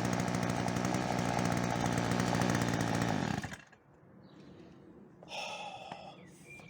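Two-stroke engine of a Ryobi RBC30SBSA petrol strimmer running steadily, then cutting off suddenly about three and a half seconds in. It is running again after its gummed-up carburettor was rebuilt.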